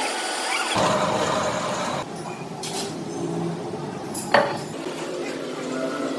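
Factory metalworking noise: clattering and the hum of machinery, with one sharp metallic knock about two-thirds of the way through.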